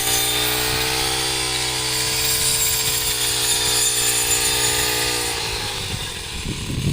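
Small two-stroke engine of a handheld cutter, such as a shoulder-slung brush cutter, running steadily at high speed while cutting rice. About five and a half seconds in, its steady note gives way to a rougher, more ragged sound.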